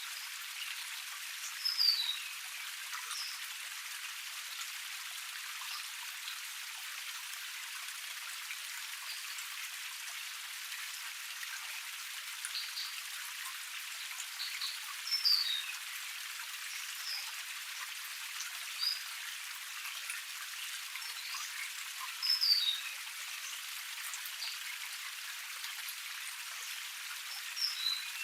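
Water of a small forest cascade splashing steadily, a thin hiss without low rumble. Over it, a bird gives short, high, falling calls every few seconds, the loudest four times.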